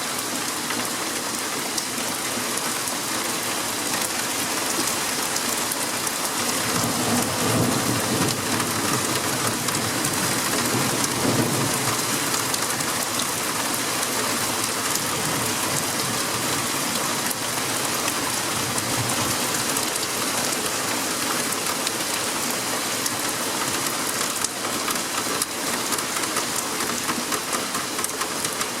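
Heavy rain falling steadily, with a long rumble of thunder that builds about six seconds in, peaks a few seconds later and slowly dies away.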